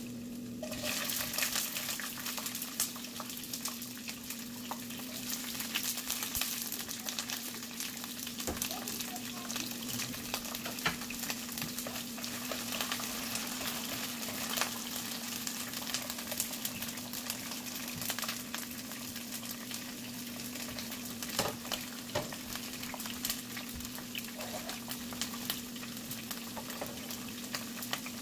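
Green beans sizzling in hot oil in a nonstick frying pan. A steady hiss starts about a second in as they go into the pan, with scattered clicks of a wooden spoon stirring them. A steady low hum runs underneath.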